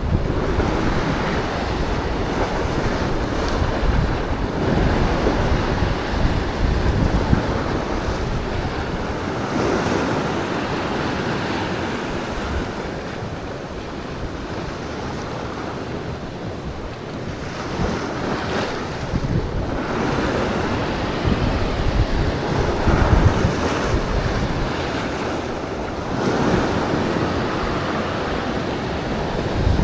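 Sea waves washing in and breaking, swelling and easing every few seconds, with wind buffeting the microphone.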